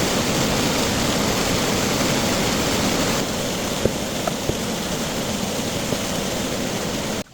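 Steady rushing water noise, loud and even, with a few faint ticks. It drops slightly about three seconds in and cuts off abruptly near the end.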